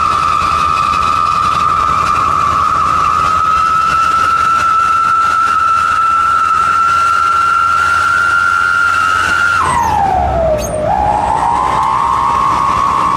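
Whistling 'wolf' exhaust (knalpot srigala) giving a loud, steady, siren-like whistle. About ten seconds in, the pitch drops sharply and then climbs back up.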